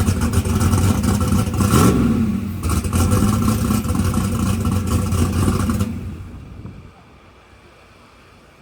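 Loud drag-racing engine running with a brief rev about two seconds in, fading away between six and seven seconds in to a low background.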